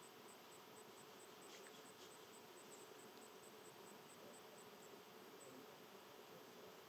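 Faint insect call: a very high, evenly pulsed chirping about five times a second that stops about five seconds in, over a faint steady hum.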